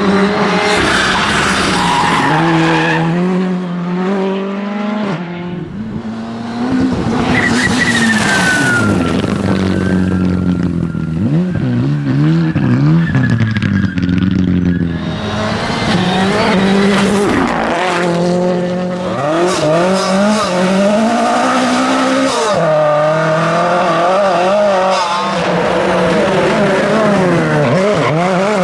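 Rally car engines at high revs, the pitch climbing and dropping sharply again and again through gear changes and lifts off the throttle, with cars passing and tyres skidding. The sound changes abruptly several times.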